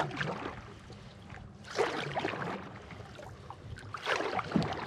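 Water sloshing and splashing, with two louder surges about two and four seconds in.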